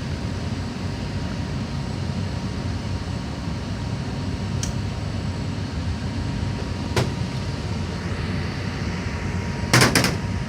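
Steady low machinery rumble with a faint steady tone, broken by a click about midway and a quick clatter of several sharp knocks near the end.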